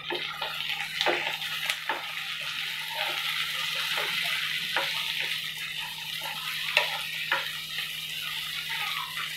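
Sliced onions, tomato and green chillies sizzling steadily as they fry in mustard oil in a pan, while a spatula stirs them and clicks against the pan now and then.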